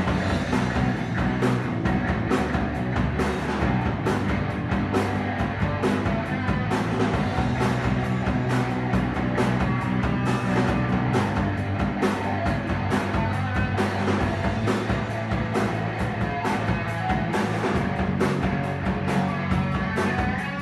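Rock band playing live: an instrumental passage of electric guitar over bass and a steady drum beat.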